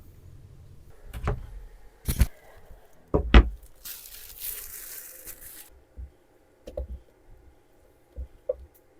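A few sharp knocks and clunks of things being handled, the third the loudest, then a hiss lasting about two seconds, then a few light taps.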